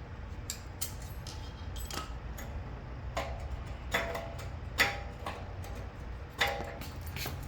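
Hand tools and metal parts clicking and clinking, some clinks ringing briefly, as the dB killer is taken out of the motorcycle's slip-on exhaust. A low steady rumble runs underneath.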